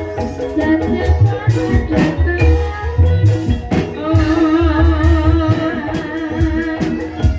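Live gamelan music for an ebeg horse-trance dance, the gending ebeg: drum strokes keep a steady beat under ringing pitched percussion and a sustained melody line, with a singing voice in the mix.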